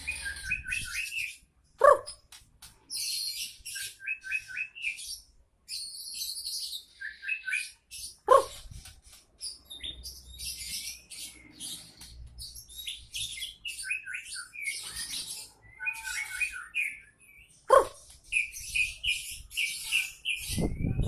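A pet songbird singing in bursts of quick, repeated chirps mixed with harsher rattling phrases. Three short, loud, lower-pitched notes stand out, about two seconds in, near the middle and near the end.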